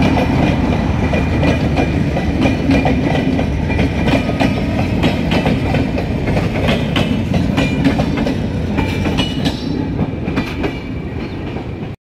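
Intercity express passenger coaches rolling past at speed: a steady heavy rumble with wheels clicking over the rail joints and a thin wheel squeal at times. The sound eases slightly near the end, then cuts off abruptly.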